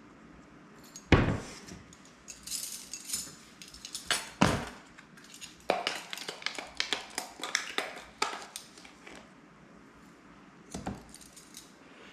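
Irregular clinking, clattering and knocking of small hard objects being handled, with a loud knock about a second in and another at about four and a half seconds.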